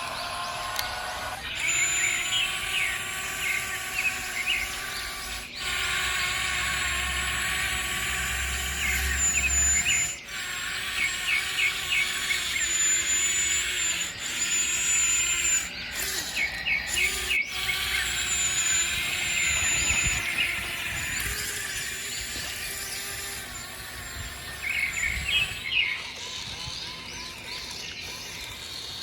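Birds chirping in short quick runs over a bed of steady background tones.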